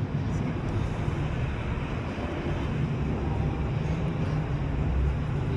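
Steady low rumble of vehicles over a continuous city background noise.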